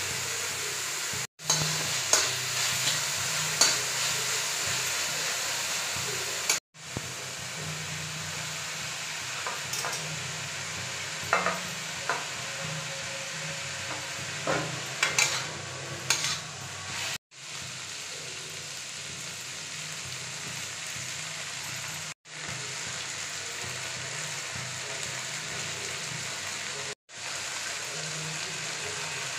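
Shredded cabbage, onion, capsicum and noodles sizzling steadily as they stir-fry in a kadhai, with a few sharp clicks now and then. The sound cuts out for an instant several times.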